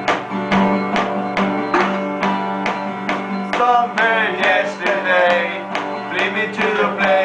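Acoustic guitar strummed in a steady rhythm, with a singing voice coming in about halfway through.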